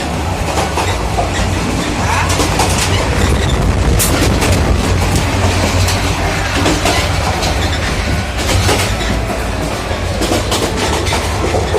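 Passenger train running at speed, heard from inside the coach: a steady low rumble with the wheels clacking and knocking over the rail joints.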